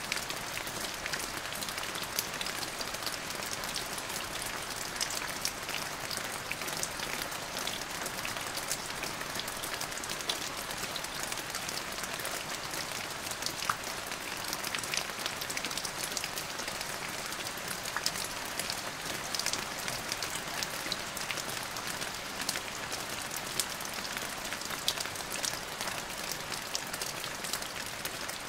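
Steady rain falling, an even hiss full of sharp little taps from individual drops, with no thunder.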